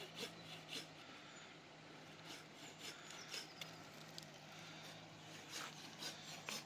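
Faint hand saw cutting wood: short rasping strokes at about two a second, in runs with a pause between them, over a steady low hum.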